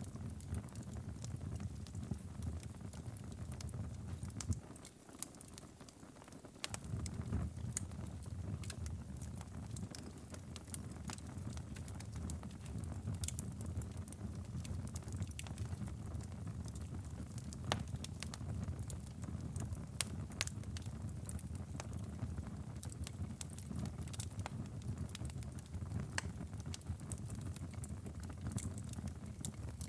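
Wood fire crackling, with sharp pops scattered irregularly throughout, over a low steady rumble that drops away briefly about five seconds in.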